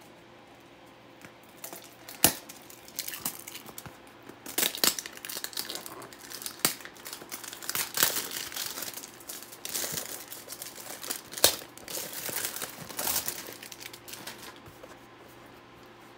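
Plastic packaging crinkling and rustling as a CPU cooler is unpacked from its box, with sharp clicks and knocks, the loudest about two seconds in and about eleven and a half seconds in. It starts about a second and a half in and dies down near the end.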